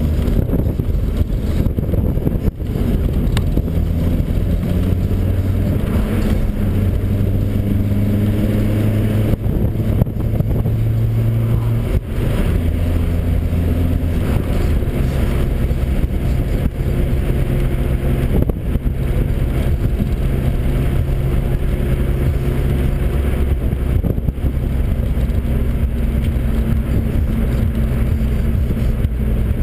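Volkswagen Saveiro pickup's engine heard from inside the cab while driving, with steady road noise. The engine note climbs and drops several times as the truck accelerates and changes gear.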